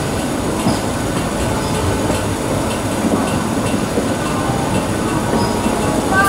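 Electric suburban local train (EMU) running, heard from its open doorway: a steady rumble of wheels on the rails with faint clicks over rail joints, and one sharp clack near the end.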